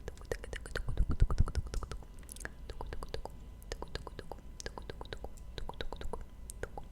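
Close-miked ASMR mouth sounds: rapid, wet clicks and smacks of lips and tongue, with a short run of louder low thumps about a second in.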